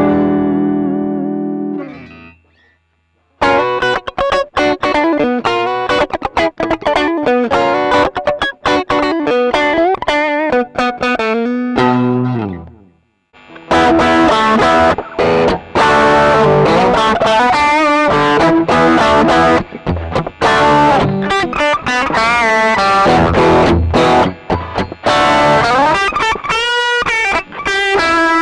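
1980 Greco SE500 Stratocaster-type electric guitar played through an amplifier. A chord rings out and dies away, then single picked notes with bends follow. After a short pause, about halfway through, the playing turns denser and brighter, with some distortion.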